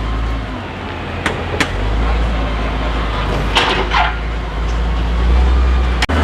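School bus engine rumbling steadily, with a couple of sharp clunks and a brief falling squeak partway through.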